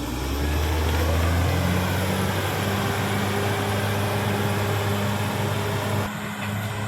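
Caterpillar D6R XL bulldozer's diesel engine running with a steady low drone that settles in pitch during the first second and changes tone abruptly about six seconds in.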